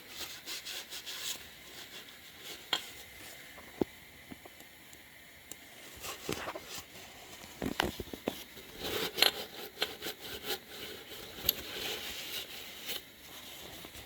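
Hand tools and metal engine parts being handled during an engine teardown: scraping and rubbing with scattered sharp clicks and knocks, busiest from about seven to thirteen seconds in.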